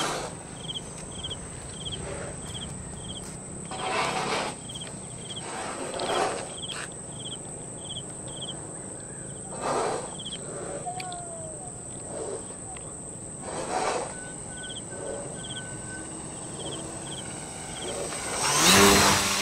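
Insects chirping in short pulses repeated in runs, over a steady high-pitched whine, with brief rushes of noise every few seconds.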